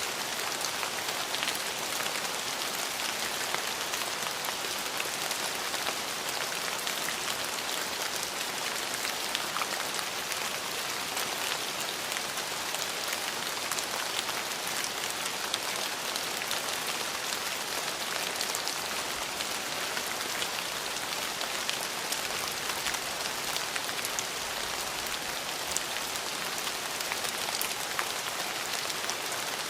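Steady rain falling, with many small drop hits pattering on a hard surface close by.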